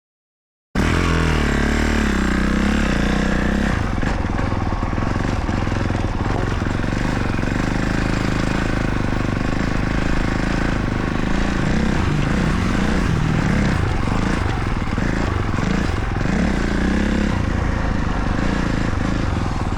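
Motocross bike engine running steadily, after a brief silence at the very start.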